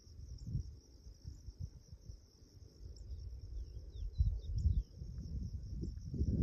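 Crickets trilling in a steady high continuous chorus, with a few short bird chirps about halfway through. Underneath, wind buffets the microphone in irregular low rumbling gusts, loudest in the second half.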